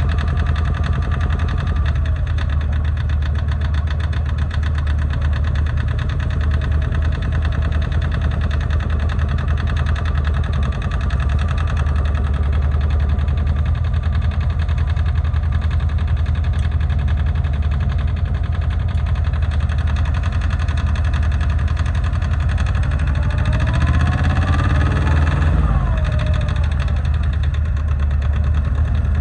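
Yanmar YM146 garden tractor's diesel engine idling steadily. Near the end it is revved up once and drops back to idle.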